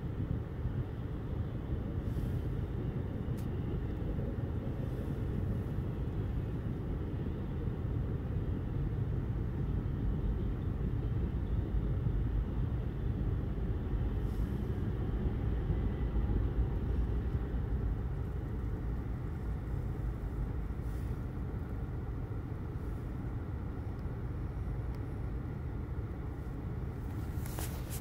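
Norfolk Southern intermodal freight train rolling past as a steady low rumble, muffled through the closed windows of a car. The rumble swells a little mid-way and eases slightly toward the end.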